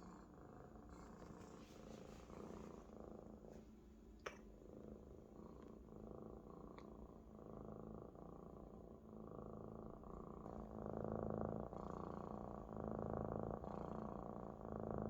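Maine Coon kitten purring steadily, the purr growing louder about two-thirds of the way through, with a single sharp click around four seconds in.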